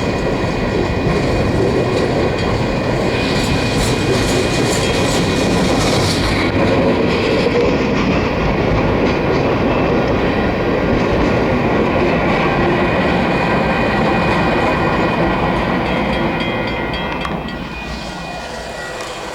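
Empty coal train cars rolling past on the rails, wheels clattering over the track in a loud continuous rumble with thin steady squeal tones above it. The sound falls away over the last few seconds as the train moves off.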